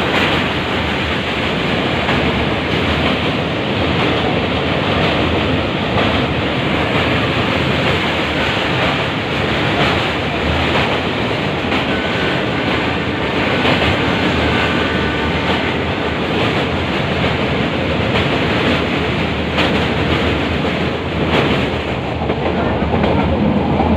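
Metre-gauge passenger train running: a steady, loud rumble of the moving train, with wind on the microphone.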